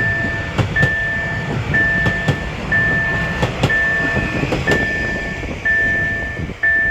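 Level crossing warning signal sounding a steady high electronic tone that repeats about once a second with a short break, while a Stadler Flirt electric train passes, its wheels clicking in pairs over the rail joints.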